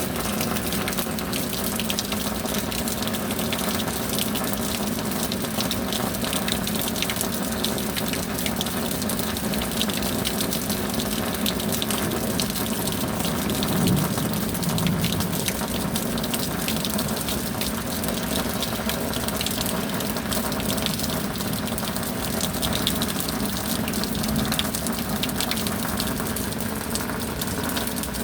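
Steady tropical rain with a dense patter of drops and a rush of running water, swelling briefly about halfway through.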